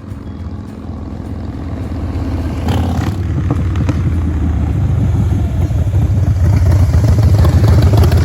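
Harley-Davidson Breakout V-twin exhaust note under hard throttle, a deep rumble that grows steadily louder over several seconds.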